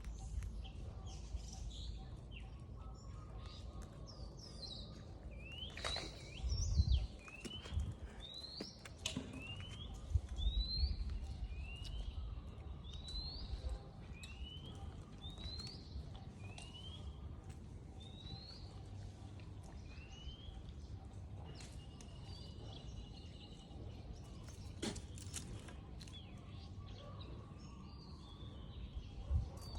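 A bird calling a long series of short rising whistled notes, about one a second, over low outdoor rumble with a couple of louder low bumps.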